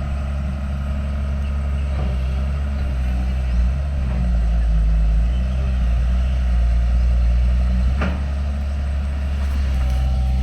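Diesel engine of a heavy earthmoving machine running steadily under work, with a knock about eight seconds in.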